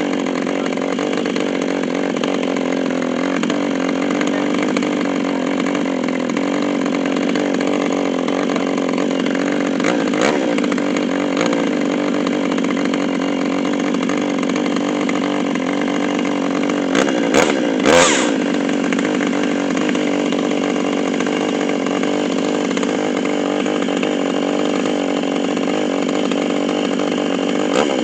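Chainsaw running at a steady speed in an Alaskan chainsaw mill, its pitch and loudness holding even, with a few brief clatters about two-thirds of the way through.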